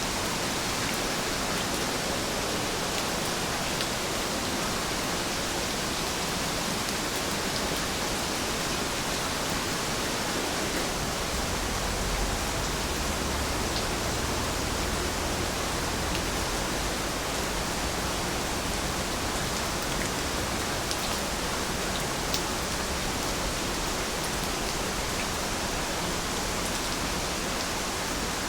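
Steady rain falling, an even hiss with faint scattered drop ticks and a light low rumble joining about a third of the way in.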